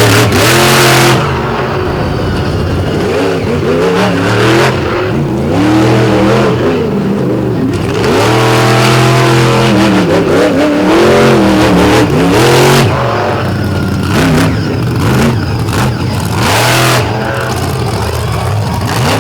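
Monster truck engine revving hard and falling back again and again during a freestyle run, its pitch sweeping up and down, with a few short noisy bursts between the revs.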